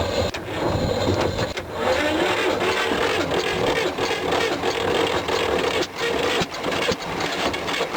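T-16's two-cylinder air-cooled diesel turning over and firing unevenly as it tries to catch. The engine is worn, with piston trouble, and had been starting on only one cylinder.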